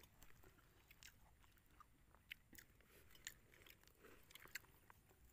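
Faint, irregular crunching clicks of someone biting and chewing something crisp.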